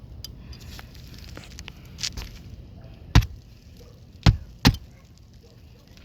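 Sharp knocks: a softer one about two seconds in, then three loud ones, the last two close together.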